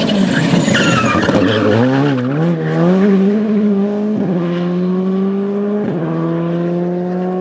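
Rally car sliding through a corner with tyres squealing and the engine note wavering on and off the throttle, then accelerating away, its pitch rising and dropping sharply at two upshifts about four and six seconds in.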